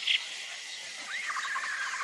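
Wild birds calling over outdoor ambience: a short call at the start, then about a second in a rising note that runs into a rapid rattling trill.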